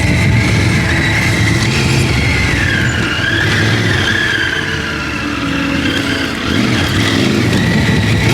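Triumph Tiger 900 Rally Pro's inline three-cylinder engine running on a dirt trail, its revs rising and falling, with loud riding noise; the level dips briefly about two-thirds of the way in.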